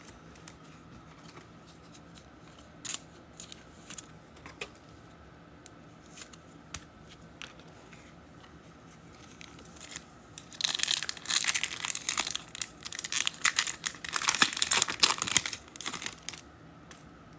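Faint scattered clicks, then about ten seconds in a foil trading-card pack wrapper being torn open and crinkled for several seconds.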